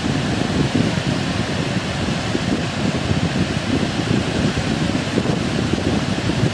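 Heavy surf and strong wind buffeting the microphone, a steady, loud, rumbling noise with no single wave crash standing out.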